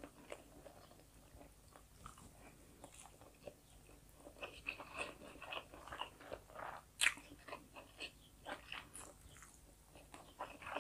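Faint, close-up mouth sounds of a person chewing food: irregular soft wet clicks, smacks and small crunches, with one sharper click about seven seconds in.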